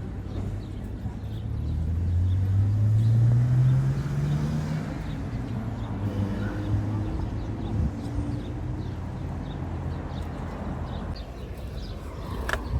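A passing motor vehicle's engine, its low hum rising in pitch about two seconds in and then fading, over a steady outdoor rumble.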